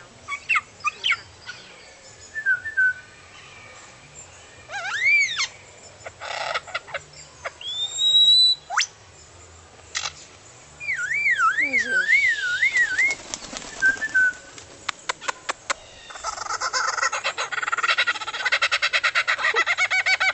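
Lyrebird singing a varied run of mimicked calls: whistles and swooping notes, a wavering up-and-down warble partway through, then a long, fast, even run of rattling pulses in the last few seconds.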